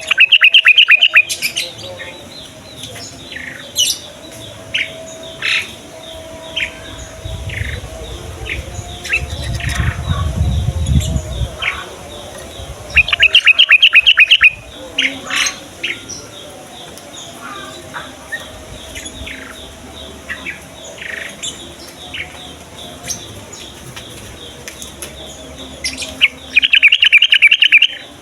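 Yellow-vented bulbul singing: three loud, bubbling phrases of rapid repeated notes, one at the start, one about halfway and one near the end. Short single chirps fall between them.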